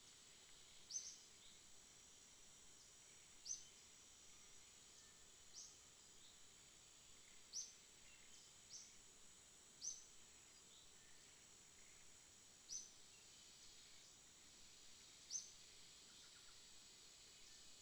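Near-silent room tone with a faint steady high whine, broken every two to three seconds by a single short, high, rising chirp from a small bird calling.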